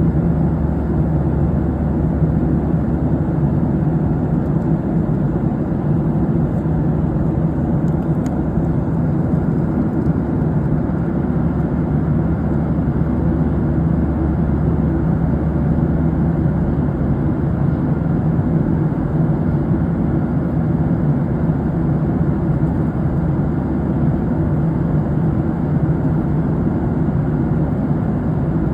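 Steady drone of an aircraft cabin in flight: engine and airflow noise heard from inside, low and unchanging throughout.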